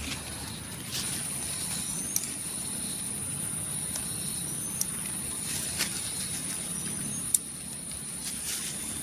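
Outdoor ambience: a steady high-pitched whine with a few faint short rising chirps and four sharp clicks, the last the loudest.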